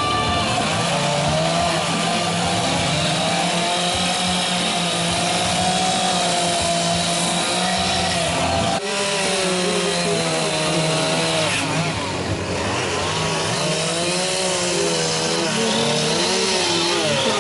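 Chainsaw running while carving wood, its engine pitch rising and falling as it is throttled and loaded in the cut, with a brief dip a little under halfway through.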